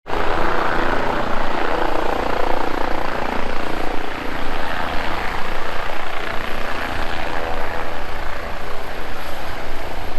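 Air ambulance helicopter running close by: a steady, loud rotor chop with engine whine.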